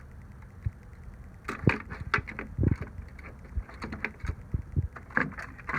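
Small plastic model train coaches being handled, giving scattered light clicks and knocks with a few dull thumps, starting after about a second and a half.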